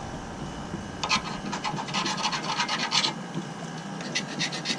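Marker pen writing on a surface in quick, scratchy strokes, in one run about a second in and another near the end, labelling the water lines hot and cold.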